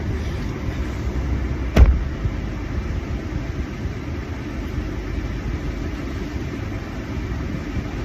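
Steady low rumble of a car, heard from inside the cabin, with one sharp thump about two seconds in.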